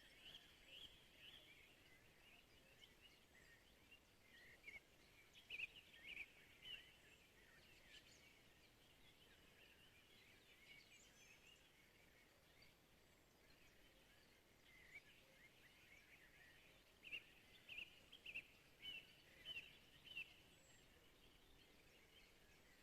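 Faint songbirds calling in short chirps, in two busier spells about a third of the way in and again near the end, over a quiet outdoor background.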